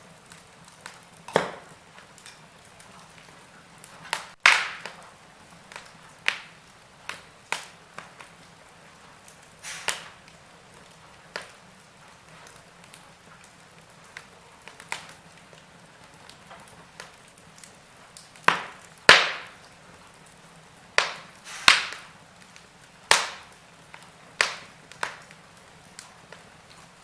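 Wood fire crackling: irregular sharp pops and snaps of burning wood over a faint steady hiss, with a cluster of louder pops about two thirds of the way through.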